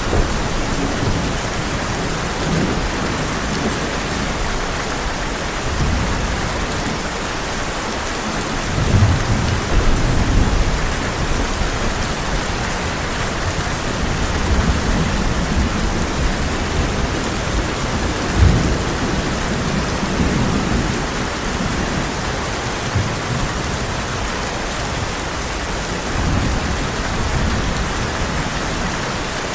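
Heavy rain falling in a steady hiss, with rolling thunder rumbling low underneath. The rumbles swell and fade repeatedly, loudest a third of the way in, with a sharper crack around the middle.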